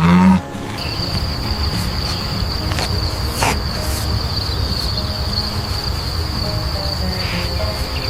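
Cricket-like insect trill, one steady high-pitched note that starts about a second in and holds without a break, over a steady low rumble. A short, loud low pitched sound comes right at the start.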